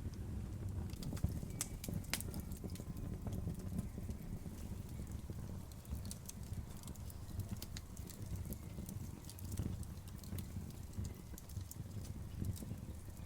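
Outdoor bonfire burning: a low, steady rumble of flame with scattered sharp crackles and pops, a louder pop about two seconds in.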